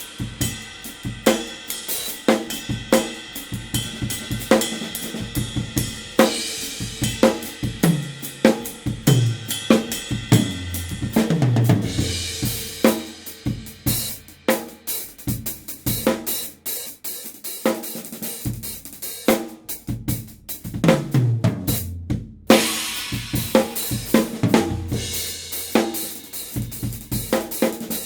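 Drum kit with Anatolian cymbals played in a busy groove: snare, bass drum, hi-hat and crash cymbals, with runs of deep drum strokes that fall in pitch. The playing stops for a moment about three-quarters of the way through, then resumes.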